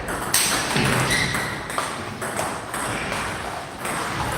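Table tennis rally: the ball ticking sharply off the bats and the table in a quick, uneven series of clicks.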